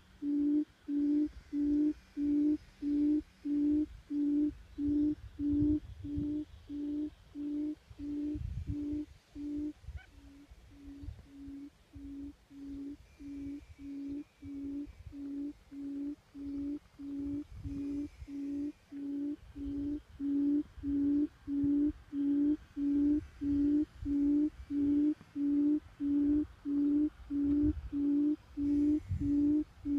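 Forest quail's low hooting call, one short hoot about twice a second in a steady unbroken series. The hoots grow fainter about ten seconds in and come back to full strength a few seconds before the end.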